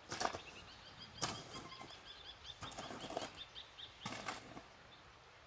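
A small bird singing a quick series of repeated high chirps, about four or five a second, for a couple of seconds. Three short noises, near the start, at about a second in and near the end, are louder than the song.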